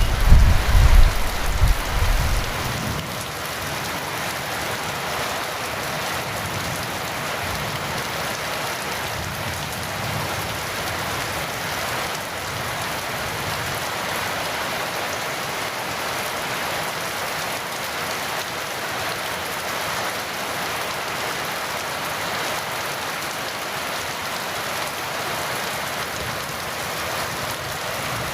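Heavy rain falling steadily. A rumble of thunder dies away in the first two or three seconds.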